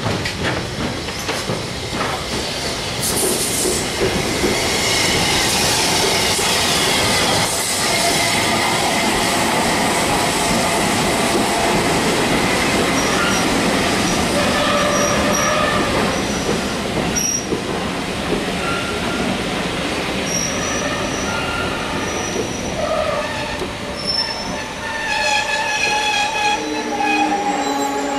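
Steam-hauled passenger train, hauled by Southern Railway S15 No. 847, running along the platform as its carriages roll past with a steady rumble. From about halfway, wheel and brake squeals sound as short high tones, growing busier near the end.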